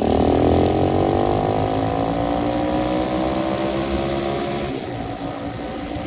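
125cc dirt bike engine running, its pitch falling over the first second or so as the revs drop, then holding fairly steady and getting a little quieter near the end.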